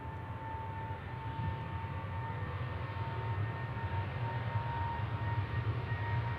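Jet airliner engines: a steady high whine over a low rumble, slowly growing louder, the whine edging slightly up in pitch.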